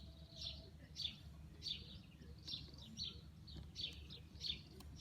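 Small birds chirping: short, sharp, slightly falling notes repeated about two or three times a second, over a low steady rumble.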